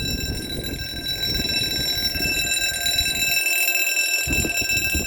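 Level crossing warning alarm sounding a continuous, steady high-pitched tone over a low rumble.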